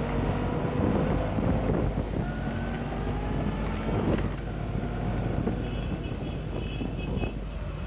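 Motorcycles riding past in a procession, their engines rising and falling in pitch as they go by, with wind buffeting the microphone.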